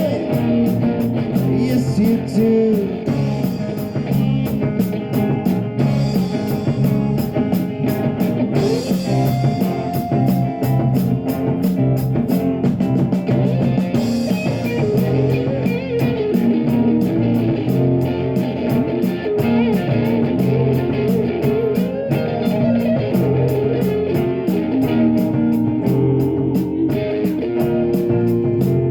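Live rock band playing with electric guitar over bass and a steady drum beat, loud and continuous.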